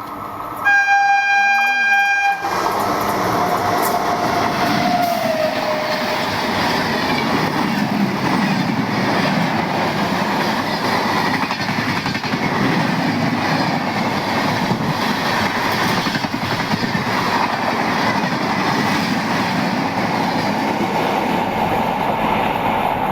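Indian Railways electric locomotive sounding its horn in a sharp blast of about two seconds, followed by a fainter tone that slides down in pitch, then the steady loud rumble and clickety-clack of the train running past.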